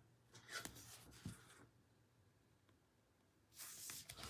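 Near silence with faint rustling of trading cards being handled and slid against each other, in a couple of soft brushes about half a second in and again near the end.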